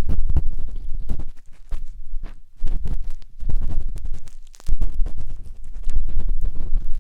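A matchstick scratching and rubbing inside the silicone ear of a 3Dio binaural microphone, heard close up as deep, crackly scraping strokes. The strokes come in runs with brief pauses about 1.5, 2.5 and 4.5 seconds in.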